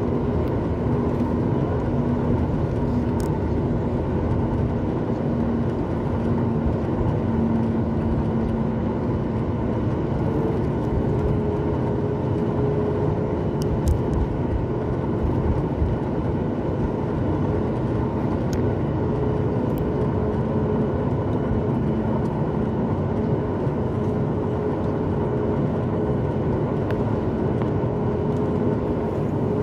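Steady cabin noise of a Boeing 737 MAX 8 in flight: the dense roar of the CFM LEAP-1B engines and the air rushing past, with a steady low hum that gives way to a slightly higher hum tone about a third of the way through.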